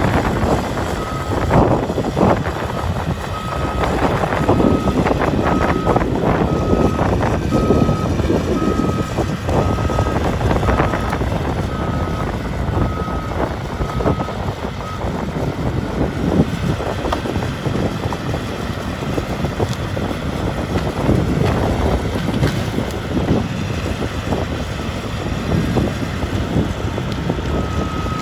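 Caterpillar 325D excavator's diesel engine running under working load, with irregular cracks and knocks through it. Its travel alarm beeps steadily, about one and a half beeps a second, for roughly the first half and again near the end.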